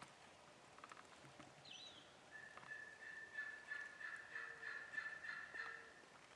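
Faint turkey calling: a run of quick pulsed notes over a thin steady high tone through the second half, with a short bird chirp about two seconds in.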